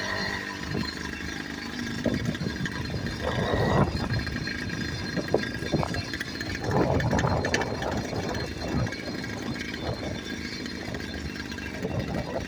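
Frankenbike's engine running through its new exhaust while under way on a ride, its level surging up and down unevenly.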